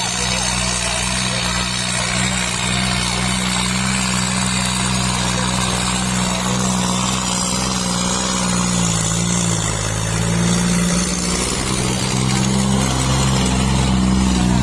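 Tractor diesel engine running steadily; about eight seconds in its note dips and wavers for a couple of seconds, then steadies again.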